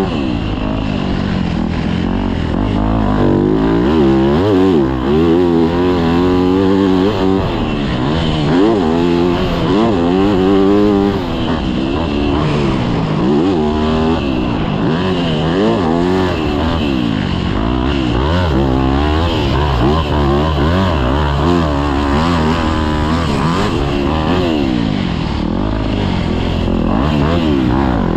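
Yamaha YZ250F's four-stroke single-cylinder engine revving up and down over and over as the dirt bike is ridden hard around a motocross track, heard from an onboard camera.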